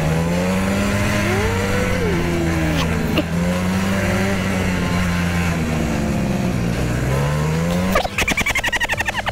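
Motorcycle engine running under way, its pitch rising and falling as the throttle is worked. About eight seconds in, the sound breaks off abruptly into a rapid pulsing.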